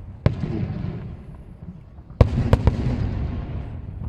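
Aerial fireworks shells bursting: one sharp bang just after the start, then three bangs in quick succession a little past the middle, each trailing off in a low rumbling echo.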